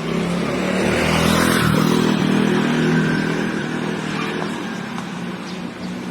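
A motor vehicle passing close by with its engine running, getting louder about a second in and fading over the last few seconds.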